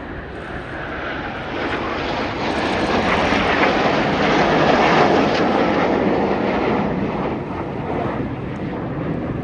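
Jet engine noise from the Red Arrows' BAE Hawk T1 jets, with their Rolls-Royce Adour turbofans, as they fly past. It grows louder to a peak about halfway through, then slowly fades.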